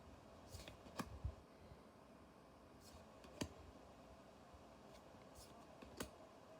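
Near silence with a few soft, sharp clicks and light rustles of trading cards and booster-pack wrappers being handled, the clearest about a second in, about three and a half seconds in and near the end, over a faint steady fan hiss.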